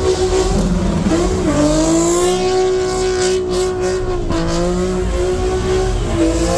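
Car engine held at high revs during a burnout, over the hiss of spinning tyres. The revs dip briefly three times: about a second and a half in, around four seconds, and near the end.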